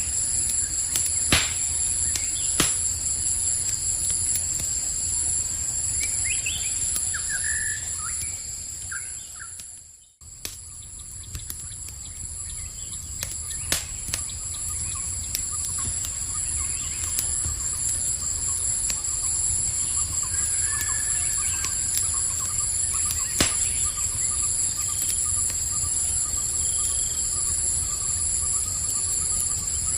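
Campfire crackling with occasional sharp pops over a low rumble of burning, against a steady high-pitched chorus of night insects and a few short bird chirps. About ten seconds in, the whole sound fades almost to silence and then comes straight back.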